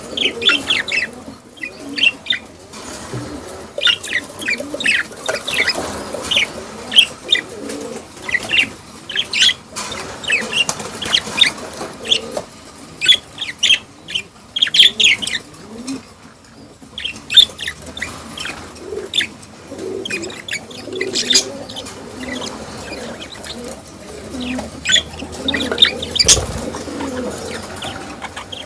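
Several budgerigars chirping and chattering continuously, with many quick, sharp chirps over a softer warbling murmur.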